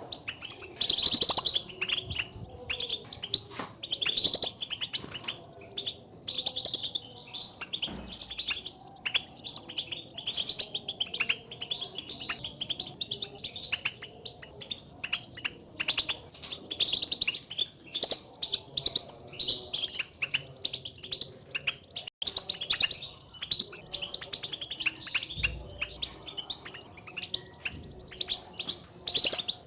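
European goldfinches giving a dense run of short chirping contact calls (the 'batbata' call goldfinches use to call to one another), not full song.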